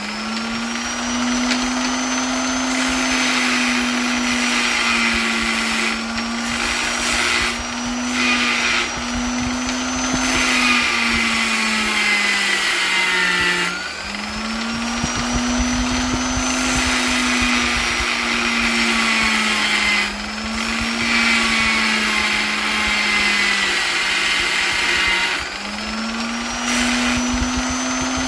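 Electric polisher motor running steadily with a high whine; its speed sags briefly and comes back up several times, most clearly about halfway through.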